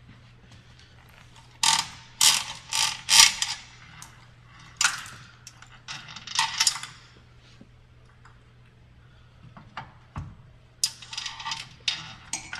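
Metal chain and spring hardware of a StairMaster SC916 stair climber rattling and clinking in several short clusters as they are handled and fitted.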